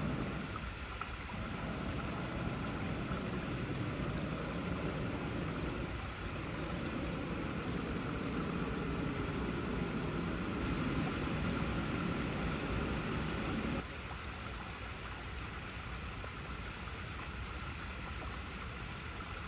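Water flowing over icy rocks, a steady rushing. About two-thirds of the way through, the deeper part of the rushing drops away suddenly and the sound goes on thinner.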